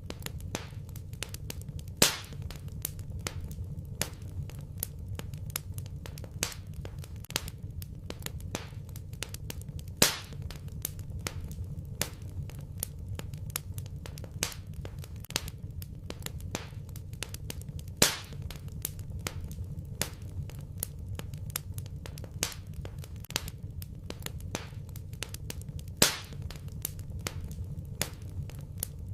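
Wood fire in a fireplace crackling: a steady stream of small snaps over a low rumble, with a louder pop about every eight seconds.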